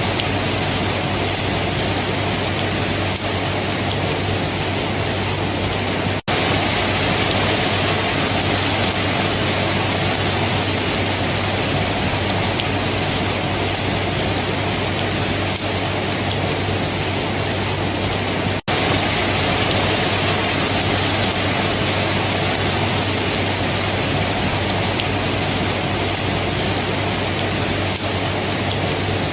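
Steady, dense rain falling, an even hiss with no distinct drops standing out. The sound cuts out for an instant twice, about six seconds in and again a little past eighteen seconds.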